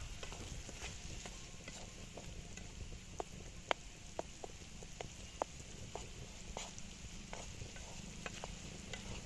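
Bitter melon stir-fry sizzling in a wok over a wood fire while a wooden spatula stirs it, with sharp ticks and pops scattered throughout.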